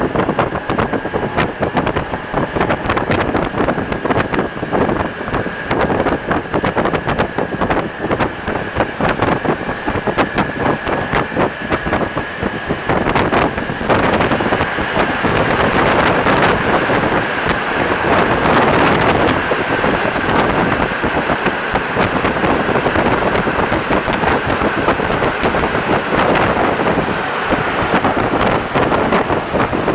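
Rubber-tyred NS-74 metro train running along the line, with continuous running noise and many small clicks. A steady high whine holds until about halfway, then the noise grows louder and rushing.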